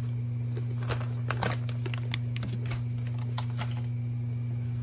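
A crisp snack being chewed, with a few light crunches and crinkles scattered through the first few seconds, over a steady low electrical hum.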